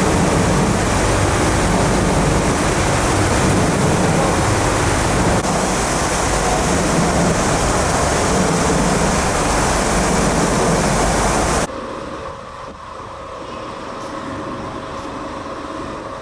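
Industrial exhaust blower running with a loud steady rush of air. About twelve seconds in it cuts abruptly to a quieter steady mechanical hum.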